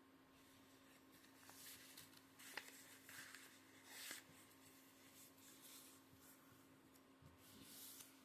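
Faint rustling and creasing of a sheet of origami paper being folded into a triangle: a few soft, short scrapes spread through the quiet.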